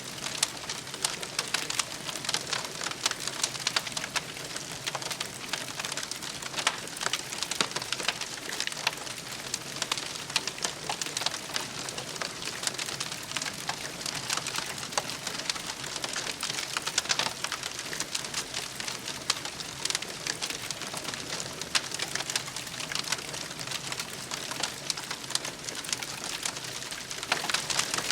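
Wood campfire crackling steadily, a dense run of small sharp cracks with an occasional louder pop.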